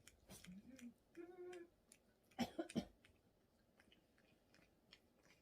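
A Pomeranian dog whines briefly twice: a short rising whine, then a short held one. A few sharp knocks, the loudest sounds, come about two and a half seconds in, with small scattered clicks.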